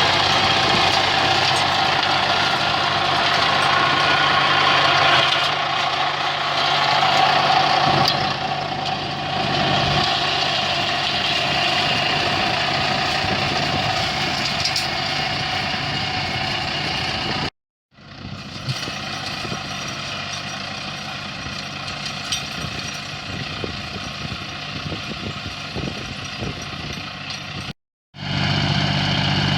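An engine running steadily, cut off twice for a moment by edits.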